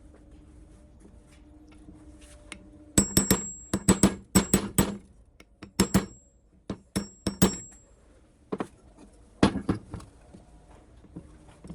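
Metal being struck with a hammer: quick runs of blows about three seconds in, then further strikes in short groups, each with a brief high ring.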